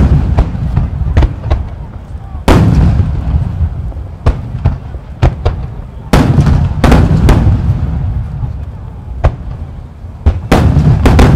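A rapid barrage of shakudama (30 cm) aerial firework shells bursting overhead: over a dozen loud, sharp booms at irregular spacing, some only a fraction of a second apart, each trailing off in a long rumbling echo.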